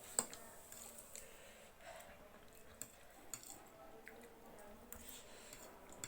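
Quiet eating sounds of spicy instant noodles being chewed, with a few scattered light clicks.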